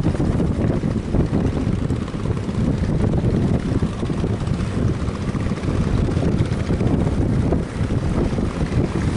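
Strong wind buffeting the microphone: a loud, continuous, gusting rumble that covers everything else.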